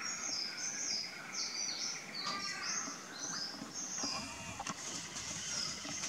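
Birds chirping: a string of short, high chirps, many falling quickly in pitch, repeated through the whole stretch over a faint background hiss.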